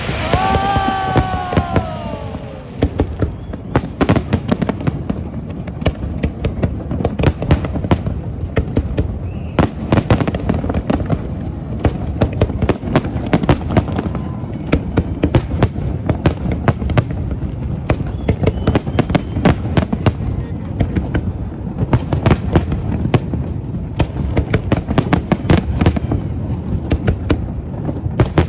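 Fireworks display: a dense, continuous run of bangs and crackles. A falling tone sounds over the first two seconds.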